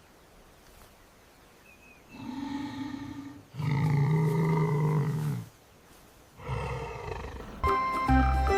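Lion roar sound effect: three roars after about two seconds of quiet, the middle one loudest and longest.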